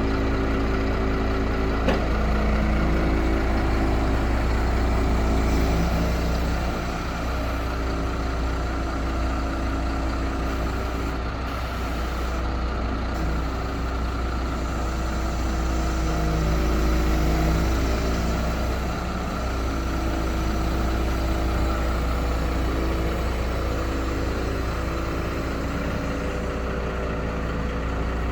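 MAN 12.250 truck's diesel engine running steadily, with a low hum whose note shifts slightly now and then.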